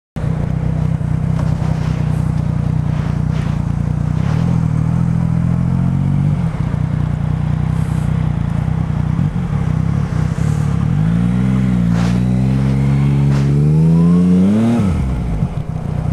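Yamaha MT-09 three-cylinder motorcycle engine under way: running at a steady speed, easing off about six seconds in, then accelerating with rising pitch from about eleven seconds, with a brief dip, before the throttle shuts off near the end.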